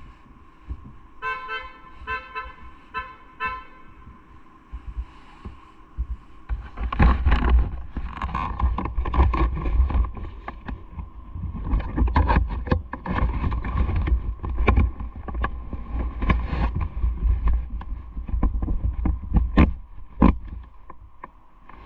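A few short pitched beeps early on, then from about six seconds a heavy low rumble of wind and road buffeting a bicycle-mounted action camera, with many sharp knocks and rattles from bumps in the ride.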